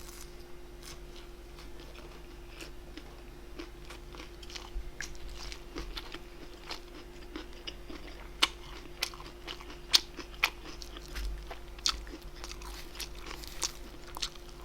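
Close-miked chewing and biting of food: wet, crunchy mouth noises with sharp clicks that come thicker and louder in the second half, over a faint steady hum.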